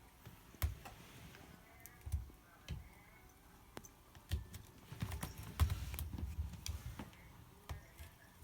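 A cat scratching with its claws, in irregular scrapes and clicks, with a denser run of scratching in the middle.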